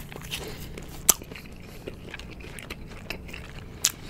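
Close-miked chewing of a chewy fried cheese ball: soft, wet mouth sounds with two sharp clicks, one about a second in and one near the end.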